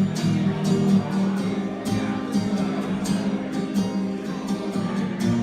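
Music: an acoustic guitar strumming steady chords.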